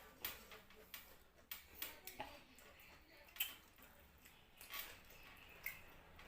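Quiet eating sounds: a scattered series of soft clicks and smacks from chewing and mouth movements, about nine in all, irregularly spaced.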